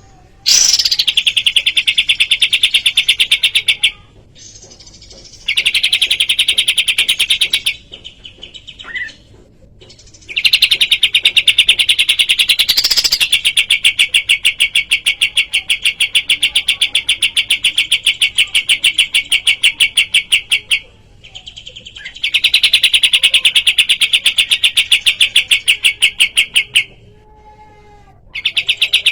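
Kapas tembak songbird singing in long runs of fast, evenly repeated high chirps, several a second, broken by short pauses. This is the rapid chattering song used as a masteran to coax caged birds into singing.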